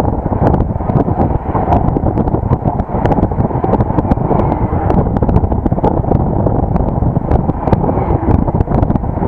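Wind buffeting the microphone of an action camera on a moving vehicle: a loud, steady low rush and rumble with frequent small crackles.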